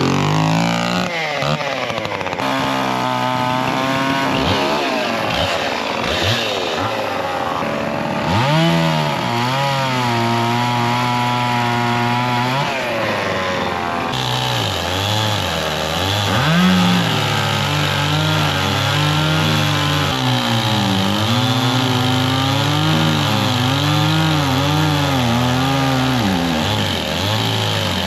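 Two-stroke chainsaws cutting firewood logs, revving up and dipping in pitch again and again as the chains bite into the wood, at times two saws running at once.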